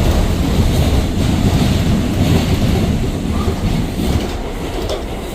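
R179 subway car running at speed, heard from inside the car: a loud, steady rumble of wheels on rail with some clickety-clack, easing slightly near the end.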